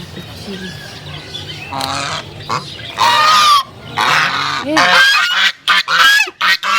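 Geese honking loudly. The calls start about two seconds in and come in quick succession near the end.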